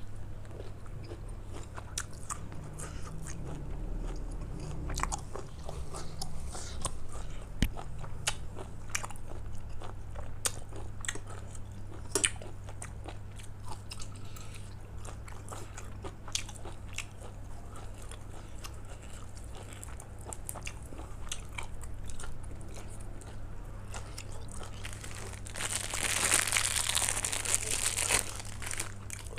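A person eating close to the microphone: chewing and biting grilled beef, sticky rice and raw vegetables, with many small crunches and clicks. There is a louder, denser stretch of crunching near the end.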